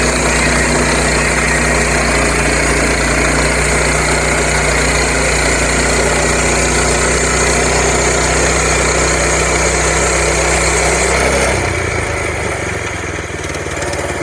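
Portable sawmill's engine running steadily at speed, then slowing and quietening about eleven seconds in.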